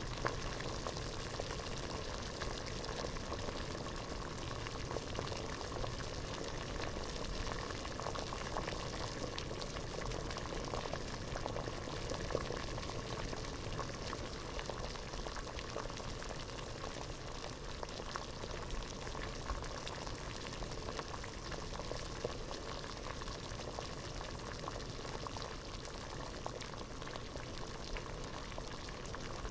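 Water at a rolling boil in a pot, bubbling and popping steadily in a dense stream of small bursts.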